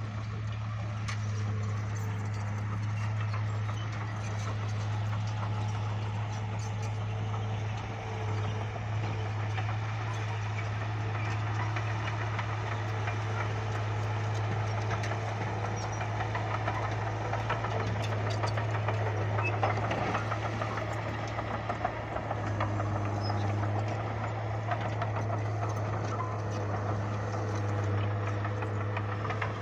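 Bulldozer's diesel engine running steadily, with frequent clicks and rattles over its low hum.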